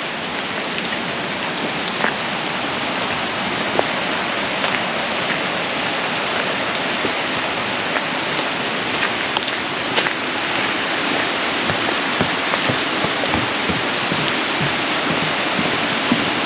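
Steady rush of Wagner Falls' water mixed with falling rain, with a few sharp ticks through it.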